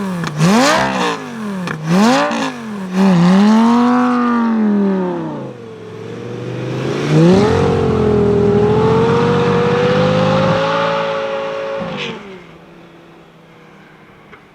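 Lamborghini Gallardo V10 engine revving up and down about four times in quick succession, then held at high revs for several seconds before easing off, with the level falling away about twelve seconds in.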